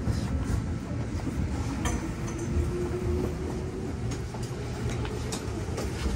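Tokyo Metro Tozai Line train heard from inside the carriage, rolling slowly into the platform as it arrives. A steady low rumble runs throughout, with a few light clicks and a faint steady whine around the middle.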